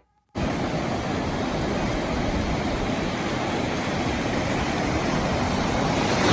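Steady noise of surf at the shore mixed with wind buffeting the microphone, starting abruptly a moment in.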